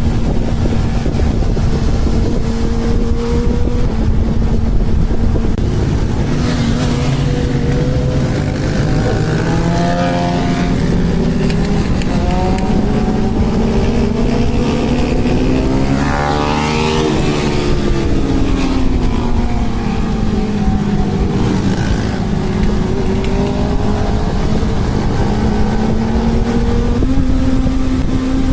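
Honda CB1000R's inline-four engine running at a steady cruise under heavy wind rumble. Other motorcycle engine notes rise and fall against it, sweeping past most strongly about halfway through.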